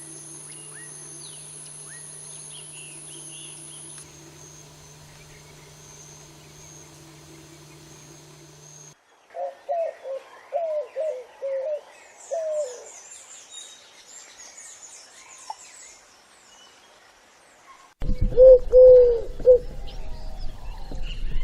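Wild birds calling: a run of short, low notes about nine seconds in and another, louder bout near the end, with a few faint high chirps.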